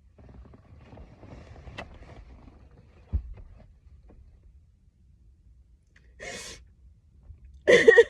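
A woman crying: unsteady breathing, a sharp sniffling intake of breath about six seconds in, then a loud sob near the end. A single low thump about three seconds in.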